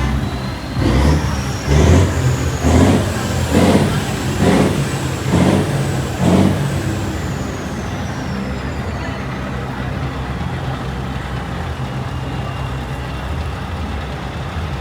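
Truck's diesel engine revved in about seven short, quick blips, then settling to a steady idle. A high whistle rises over the first couple of seconds and slowly falls away by about nine seconds in.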